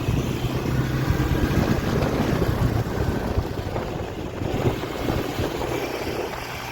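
Quad bike engine running at a steady pitch.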